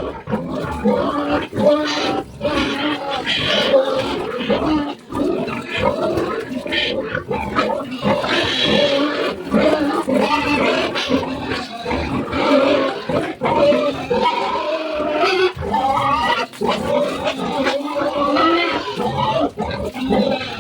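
Pigs calling loudly and without a break, many overlapping pitched calls.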